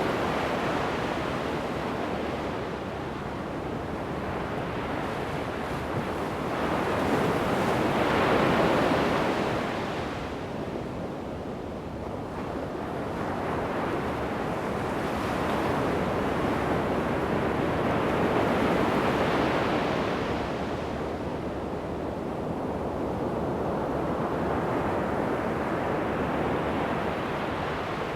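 Ocean waves breaking and washing up a sandy beach, the surf swelling and falling back in slow surges every several seconds, with some wind on the microphone.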